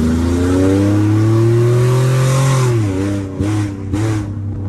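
Infiniti G37's VQ37VHR V6 running with no exhaust, accelerating with its pitch climbing steadily, then dropping off sharply as the revs fall a little under three seconds in. A few short crackles follow as the engine settles to a lower, steady note.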